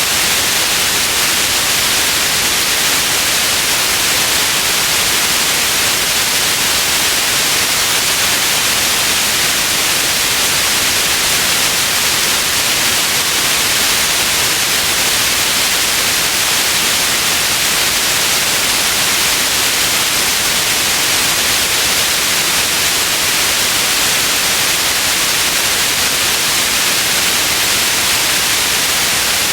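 Steady, unchanging white noise: an even hiss, brightest in the treble, with no variation.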